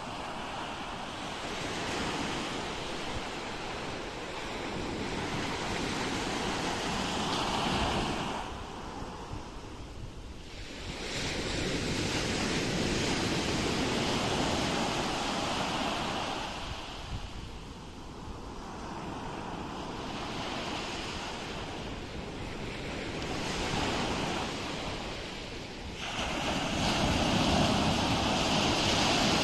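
Ocean waves breaking and washing on a shore, surging and receding every few seconds, with the biggest surge near the end. Some wind on the microphone.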